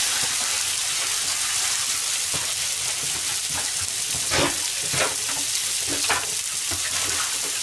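Mini hamburger patties sizzling in a frying pan: a steady high hiss of frying, with a few louder crackles a little past the middle.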